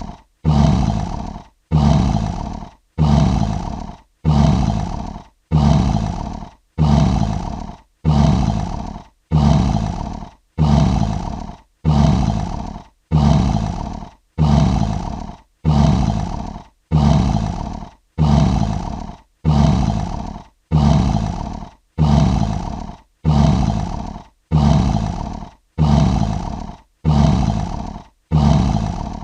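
Lion roar sound effect looped: the same short roar repeats about every 1.3 seconds, each one fading and then cut off by a brief silence.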